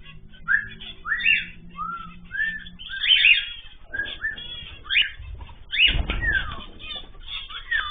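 Caged ornamental birds calling all at once: many overlapping short chirps and arched whistling calls, with a brief low rumble or flutter about five to six seconds in.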